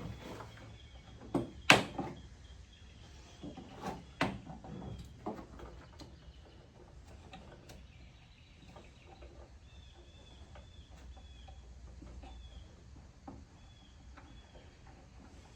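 A few sharp knocks and clunks, the loudest about two seconds in, followed by softer scattered clicks and taps as parts are handled during work on a car.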